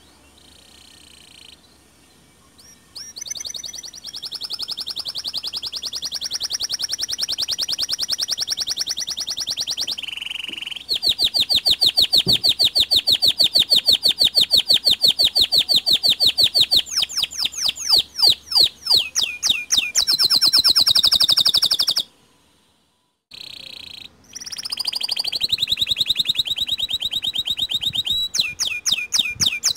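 White domestic canary singing long, fast trills of rapidly repeated high notes that shift pitch from phrase to phrase, with short breaks about ten and twenty-two seconds in.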